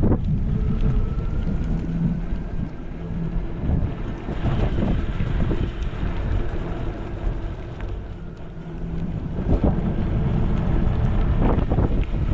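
Wind buffeting the microphone as an electric scooter rides along, with a faint whine rising in pitch over the first few seconds.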